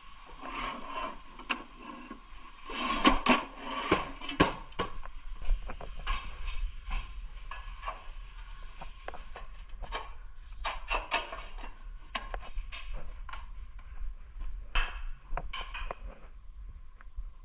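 Hand tools working on tile: scraping strokes, loudest in the first few seconds, then irregular knocks, taps and clicks. A faint steady high hum sits underneath.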